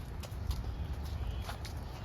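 A few footsteps, sharp short clicks spaced irregularly, over a steady low rumble.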